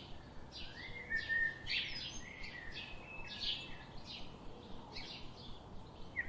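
Songbirds chirping: short high chirps about twice a second, with a few brief whistled notes, over a faint background hiss.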